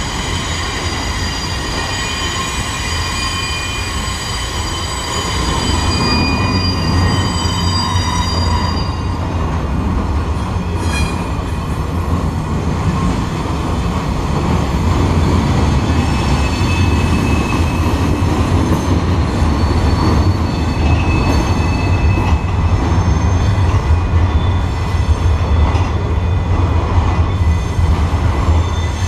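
Freight train cars rolling past, a steady loud rumble of wheels on rails with high, thin wheel squeal over it. The squeal is strongest for the first nine seconds or so, then fades to faint, intermittent tones while the rumble grows louder.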